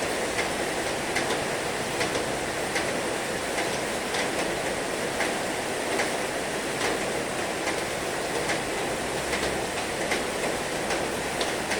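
Heavy rain falling steadily, with individual drops giving sharp ticks a couple of times a second.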